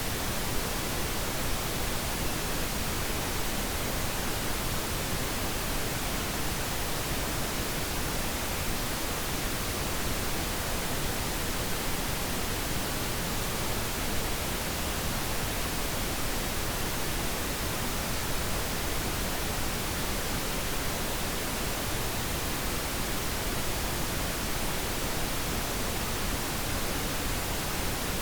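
Steady pink noise: an even, unchanging hiss across all pitches, used as a sleep sound for babies.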